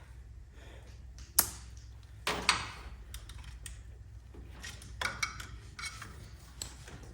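Hand tools clicking and knocking against metal under the hood while a coolant hose clamp is worked loose: a few separate sharp clicks and a short scraping clatter, the sharpest about a second and a half in. A steady low hum runs underneath.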